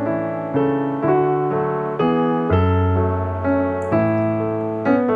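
Background piano music: gentle chords struck about every half second, each note fading before the next.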